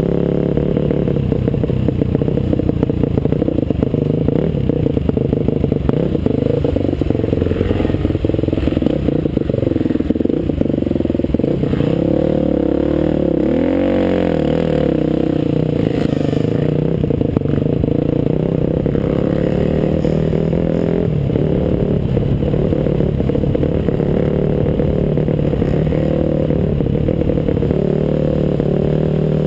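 Off-road motorcycle engine running steadily under way, its pitch rising and falling once with the throttle about halfway through, with frequent rattles and knocks from the bike over rough ground.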